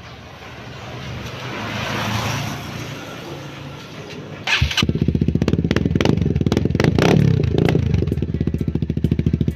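A hiss swells and fades, then about four and a half seconds in a motorcycle fitted with an aftermarket Yoshimura exhaust starts up. It is revved briefly and settles into a loud idle with an even, rapid exhaust pulse.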